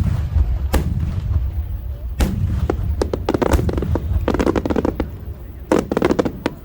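Aerial fireworks shells bursting overhead, each burst a sharp report followed by rapid clusters of crackling, over a continuous low rumble of echoing explosions.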